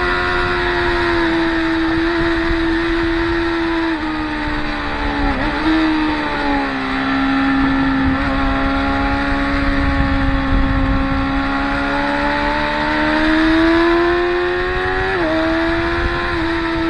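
Track-day motorcycles running at high revs, engine note carrying steadily with the pitch slowly rising and falling. It drops sharply at gear changes about four seconds in, again a second later, and near the end.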